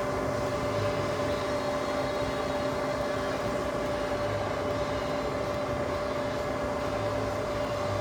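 Summit 16x60B engine lathe running steadily, its spindle and gearing turning with the half nut engaged for threading. It makes an even machine hum with one clear steady tone.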